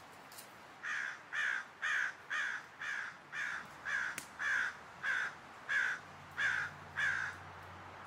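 A bird calling in a quick, even series of about a dozen calls, roughly two a second.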